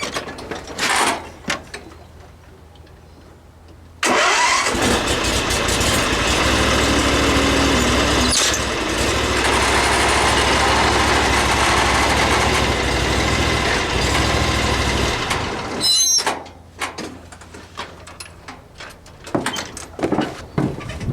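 A riding mower's engine starts about four seconds in, runs steadily for about eleven seconds and shuts off. Metal clicks and knocks come before and after it.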